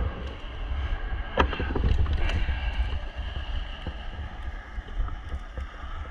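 Wind rumble on the camera's microphone over a steady machine hum, with a couple of sharp knocks about a second and a half and two seconds in.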